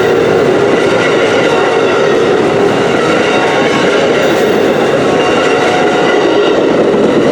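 Amtrak passenger train passing close by, a loud steady rumble and rush of its wheels on the rails.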